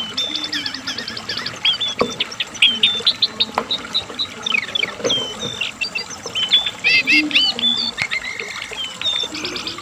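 A lesser shortwing (cingcoang coklat, or jongkangan) singing a long, fast, unbroken song of high chirps, quick trills and short whistled notes.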